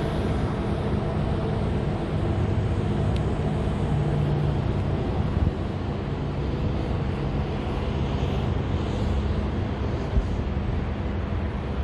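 Steady low rumble of vehicle engines from street traffic, with a constant engine hum.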